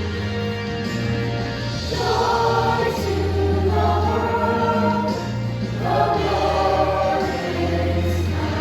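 School choir singing with instrumental accompaniment and sustained low bass notes underneath; the voices swell in strongly about two seconds in and again about six seconds in.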